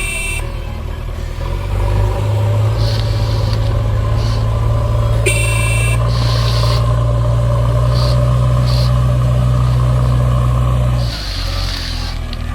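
Heavy vehicle engine running steadily with a deep drone, louder from about two seconds in and dropping back near the end. A short high beep sounds twice, about five seconds apart, with several short hisses in between.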